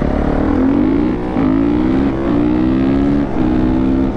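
Dirt bike engine accelerating hard, its pitch climbing and then dropping back at each gear change, about three times.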